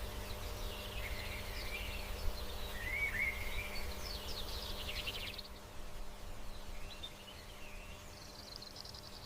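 Birds chirping and warbling over a low, steady outdoor background, with a rapid trill about four to five seconds in; the background turns quieter a little past halfway.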